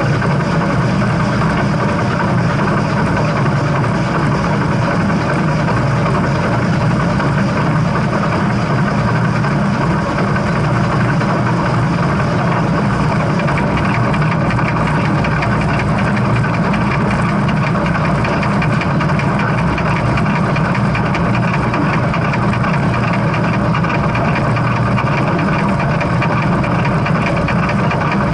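Steam train making a steady, loud mechanical rumble that holds unchanged, with no whistle or distinct beats.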